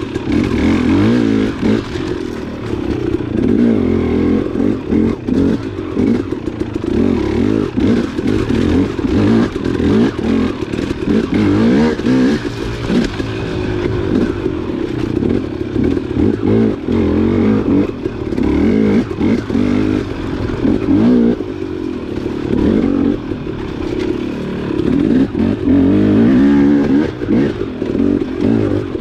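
Dirt bike engine revving up and easing off over and over as the bike is ridden along a trail, its pitch rising and falling without a break.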